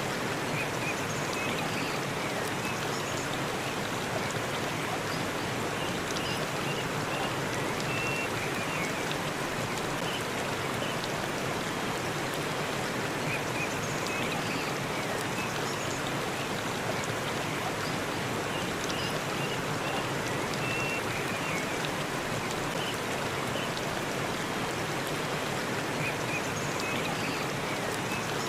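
Forest waterfall rushing steadily, an even wash of falling water, with faint short high chirps recurring every few seconds.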